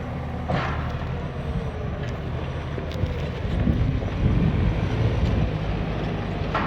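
A heavy diesel engine running steadily, growing louder for a second or two past the middle, with a short knock about half a second in.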